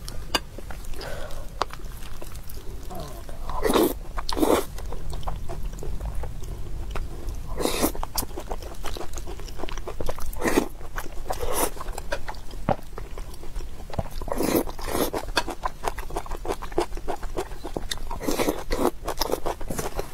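Close-miked chewing and mouth sounds of someone eating, with many small clicks throughout and a few louder bursts.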